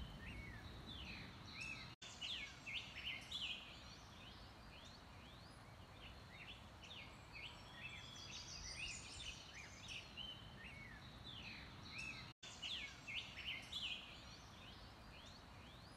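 Several wild birds chirping and calling, in clusters of quick rising and falling notes over a faint steady outdoor background; the sound cuts out briefly twice.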